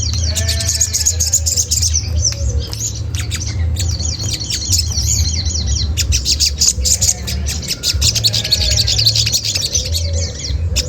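Olive-backed sunbird calling: rapid, high-pitched 'cret cret' chatter and chirps with no pause, over a steady low hum.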